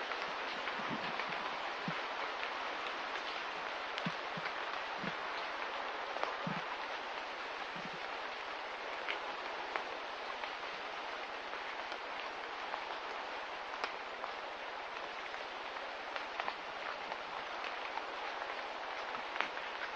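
Steady light rain, an even hiss of falling drops with scattered individual drip ticks throughout and a few soft low plops in the first several seconds.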